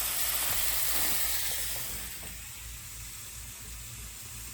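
Sausages and bacon sizzling in a hot frying pan: a steady hiss that drops to a lower level about two seconds in.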